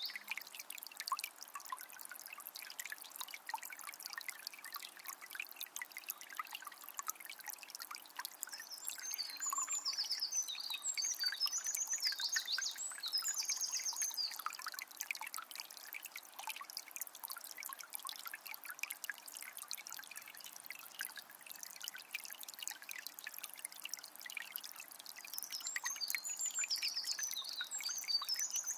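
A calm forest river flowing with a steady trickling, splashing sound. A bird sings in short high phrases, about a third of the way in and again near the end.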